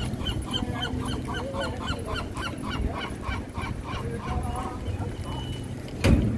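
Honking bird calls in a fast run of short rising-and-falling notes, several a second, fading out after about four seconds over a low background rumble; a short loud knock near the end.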